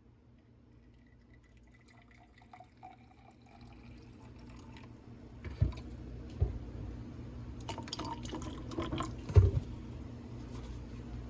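Water being poured into a container, a faint tone rising in pitch as it fills, then a steady rush of running liquid with a few sharp knocks.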